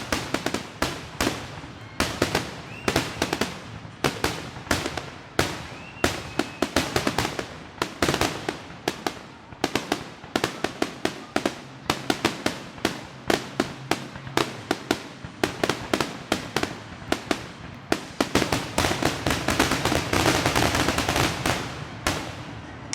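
Fireworks display going off in a rapid barrage: sharp overlapping bangs, several a second, with echoing tails. Toward the end the bursts merge into a dense, continuous crackle.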